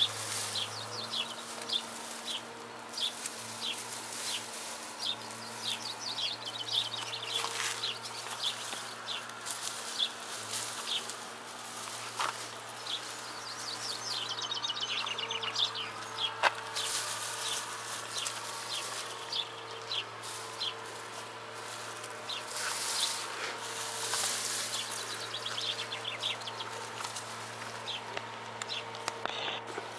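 Small birds chirping and twittering in quick, repeated high notes, with a rapid trill about halfway through. A steady low hum runs underneath.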